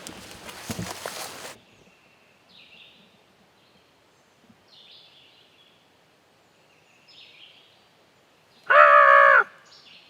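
Footsteps rustling through dry leaves and brush stop after about a second and a half, leaving faint songbird chirps every couple of seconds. Near the end comes one loud, pitched call lasting under a second.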